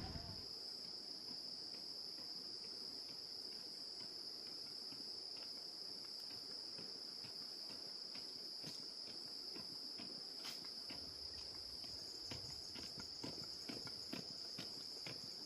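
Insects droning steadily at one high pitch. In the second half a run of soft footsteps comes in.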